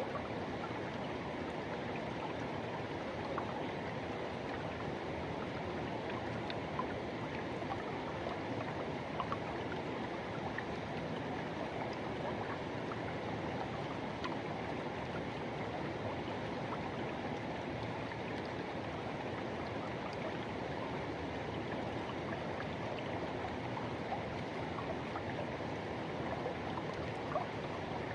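Forest river water rushing and flowing steadily over rocks, a constant even rush with small splashes here and there.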